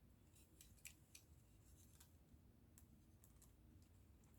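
Near silence broken by faint, scattered light clicks of small plastic model-kit pieces being handled, with one slightly louder click at the very end.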